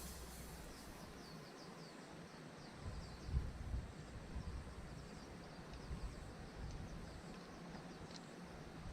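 Faint outdoor ambience with short, high chirps from a small animal, repeating several times a second, and a few low thumps.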